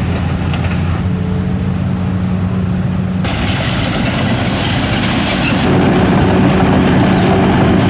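Heavy logging truck's diesel engine running steadily, with a constant low hum under mechanical noise; the sound turns brighter and noisier about three seconds in and a little louder near six seconds.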